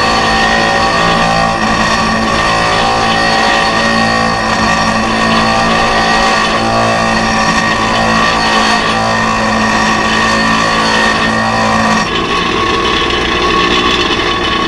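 Power tool cutting a V-notch into a solid round metal slider peg, running steadily with several high steady tones. Its sound changes about twelve seconds in, as a lower tone drops out.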